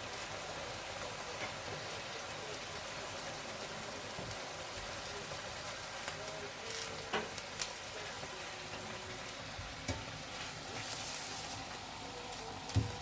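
Small pieces of chicken sizzling in hot oil in a frying pan as they brown, with a few sharp clicks, the loudest near the end.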